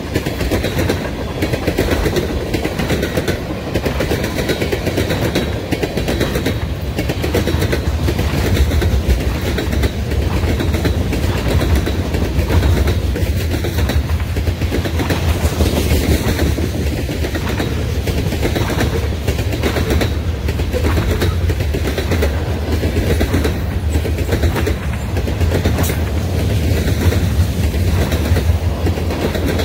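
Freight train's tank cars and covered hoppers rolling steadily past close by: a continuous low rumble of steel wheels on the rails, with frequent clicks as the wheels cross the rail joints.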